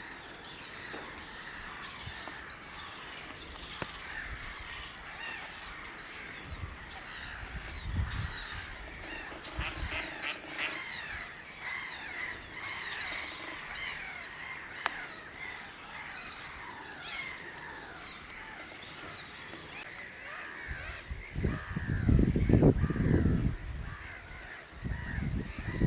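Many wild birds calling at once, a busy, continuous chorus of short high calls. From about three-quarters of the way in, a loud low rumble comes and goes over the calls.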